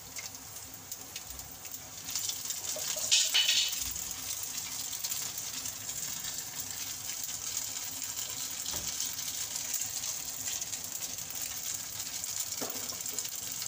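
Leftover Maggi noodle snacks frying in a shallow layer of oil in a nonstick pan: a steady sizzling hiss, with a brief louder flare of sizzle and clatter about three seconds in.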